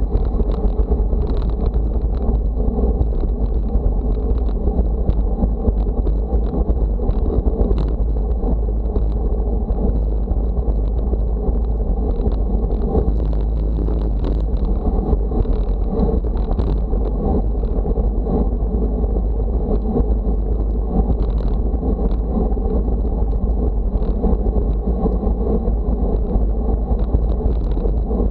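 Steady wind rush buffeting the microphone, heavy and low, over a continuous rumbling movement noise, with a faint high steady whine and scattered light ticks.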